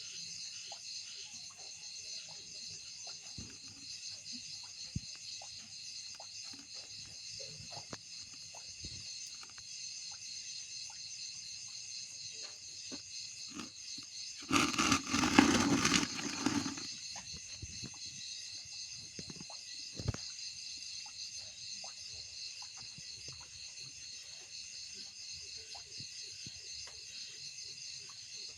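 Night insect chorus: a steady, high-pitched, pulsing trill of many calling insects. About halfway through there is a loud, broad rustling noise lasting about two seconds.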